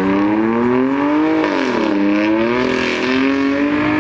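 Car engine accelerating hard: revs climb, drop sharply at a gear change about a second and a half in, then climb again.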